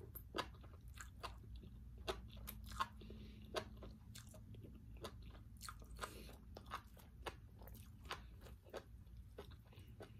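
Close-up chewing of crunchy seaweed salad: a steady, irregular run of wet crunches and mouth clicks.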